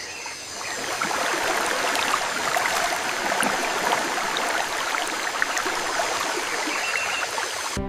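Flowing stream water, a steady babbling rush that swells in over the first second and cuts off abruptly near the end.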